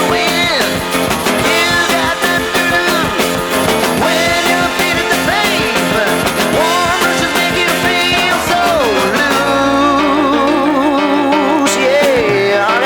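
A 1972 song recording: a sung vocal over a band with drums. About nine seconds in, the drums drop back and held notes with vibrato carry on.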